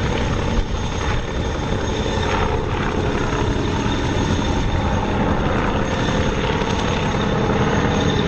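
Avro Anson's twin radial piston engines and propellers running steadily as the aircraft flies overhead.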